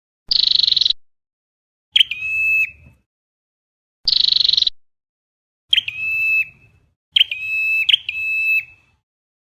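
Recorded flowerpecker calls played back on a loop as a trapping lure. Two kinds of call alternate, each about half a second long and cut off abruptly: a high buzzy note and a lower whistled note. Two of the lower notes come back to back near the end.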